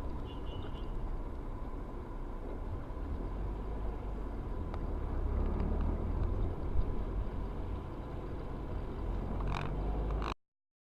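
Steady low rumble of a vehicle driving, engine and road noise, which cuts off abruptly near the end.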